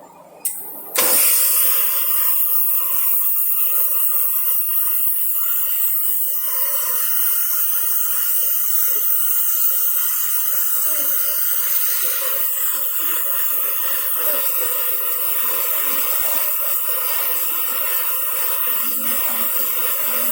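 Oxy-fuel flame cutting torch on a CNC cutting machine: a brief click about half a second in, then the flame starts suddenly about a second in and runs with a loud, steady hiss of burning gas and oxygen, the preheat flame warming the plate before the cut.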